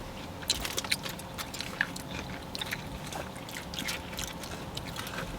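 Someone chewing tacos close to the microphone: an irregular run of small, sharp mouth clicks and smacks over a faint steady hum.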